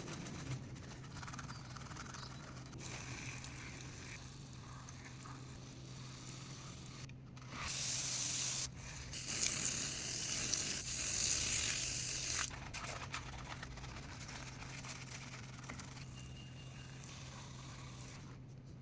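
Scrubbing and rustling while a dirty toy truck is cleaned. Midway comes a loud hissing spray in two stretches, a short one and then a longer one of about three seconds, over a steady low hum.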